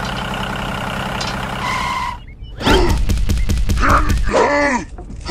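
Steady engine running sound, which cuts off about two seconds in. After a short pause, a loud voice groans and shouts with falling pitch for about two seconds.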